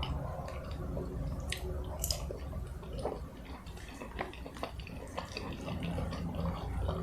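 Close-miked eating: chewing food with many small wet mouth clicks and smacks, scattered irregularly.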